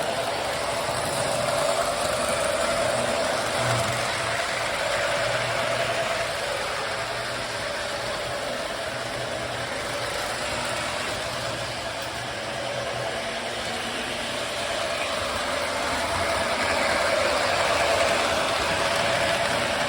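Lionel toy F-unit diesel locomotives running on the track: a steady electric-motor whir and wheel-and-rail rattle, swelling louder about two seconds in and again near the end as the trains come close.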